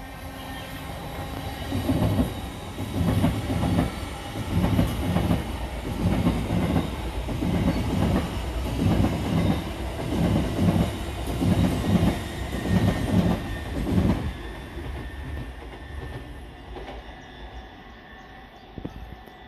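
LNER Azuma high-speed train passing, its wheels clattering over rail joints and points in a regular clickety-clack about once a second, then fading away as the last coaches go by.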